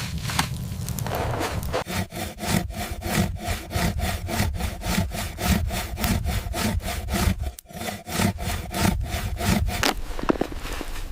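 Saw cutting through wood in fast, even back-and-forth strokes, about four a second. It starts about a second and a half in, pauses briefly about seven and a half seconds in, and stops near the end.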